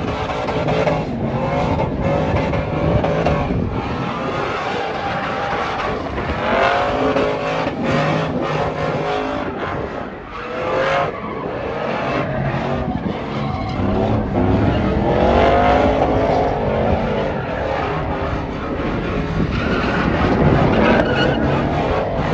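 Pickup truck engine revving hard during a burnout, its revs climbing and dropping again and again, over the hiss and squeal of spinning tyres.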